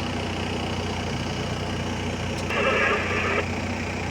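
Heavy earthmoving machine's diesel engine running steadily at a constant pace, with a brief higher-pitched sound for under a second about two and a half seconds in.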